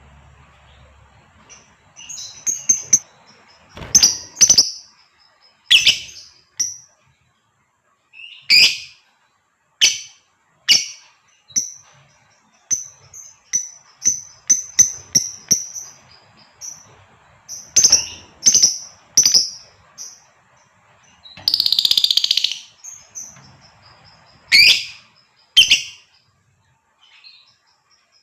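Female lovebird calling: short, shrill, high-pitched chirps in irregular clusters, with one longer harsh screech a little after twenty seconds in.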